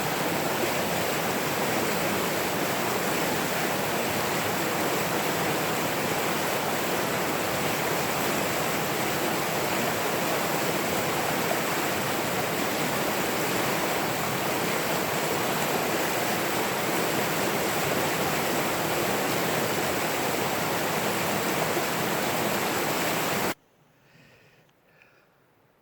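Running water rushing steadily as a loud, even hiss and roar. It cuts off suddenly near the end, leaving near silence with a few faint small sounds.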